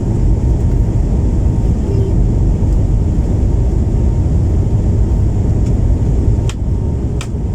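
Loud, steady low rumble of an Airbus A321 airliner's jet engines heard inside the cabin as the plane takes off. Two sharp clicks sound near the end.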